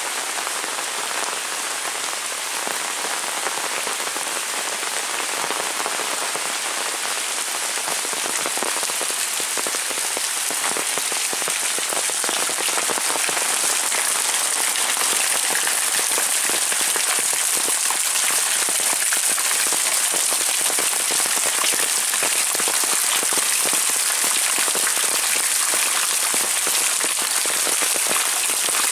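Heavy rain pouring steadily, a dense hiss of countless drops hitting surfaces, growing slightly louder toward the end.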